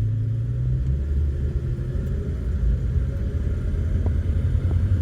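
1970 Dodge Dart Custom's engine accelerating under normal throttle, a low rumble with its pitch rising slowly. This time it pulls without the hesitation the owner is trying to show, which he blames on a carburetor that is the wrong part for the car.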